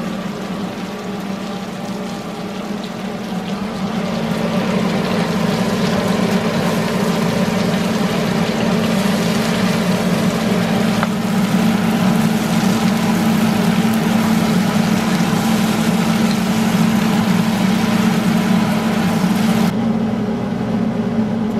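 Chicken and sliced mushrooms sizzling in a wok over a gas burner, over the steady hum of a range hood fan. The sizzle builds a few seconds in and drops away near the end, leaving the fan hum.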